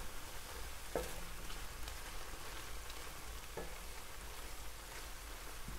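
Efo riro spinach stew sizzling in an enamelled pan while a wooden spoon stirs it. The spoon knocks and scrapes against the pan a few times over the steady sizzle.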